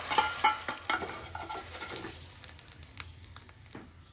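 Egg frying in hot oil in a frying pan as an omelette cooks. The sizzle fades away over a few seconds, with quick clicks and scrapes of utensils against the pan, most of them in the first two seconds.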